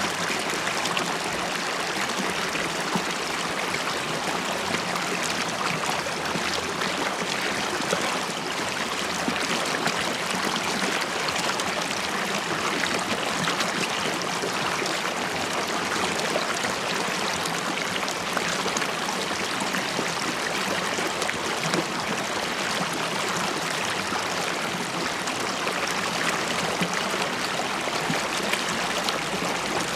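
Shallow river water flowing and bubbling steadily over stones, a continuous gurgling rush.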